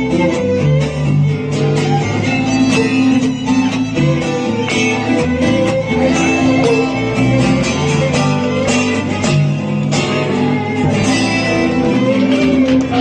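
Live band music with guitar playing continuously.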